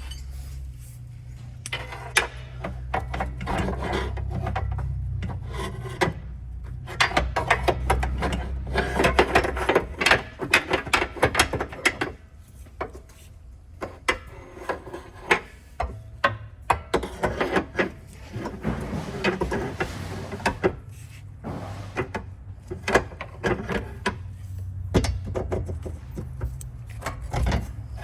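Irregular scraping, rubbing and knocking of metal parts as a car's drive axle is worked loose and pulled out by hand, with many sharp knocks scattered among the scrapes.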